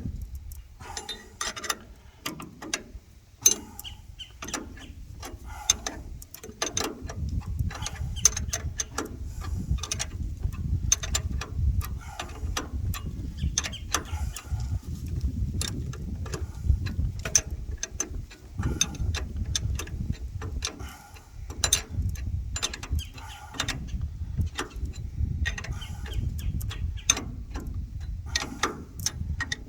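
Ratchet wrench clicking in quick runs as the bolts on a circulator pump's flange are tightened, with a low rumble underneath from about seven seconds in.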